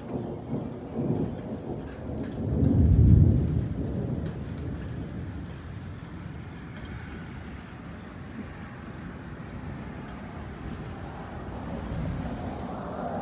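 Thunder rumbling, swelling to its loudest about three seconds in and then fading, over steady rain with scattered drops ticking.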